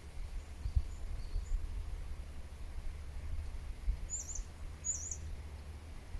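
Small songbird giving two short, high, wavy chirps about four and five seconds in, with fainter high calls near the start, over a steady low rumble.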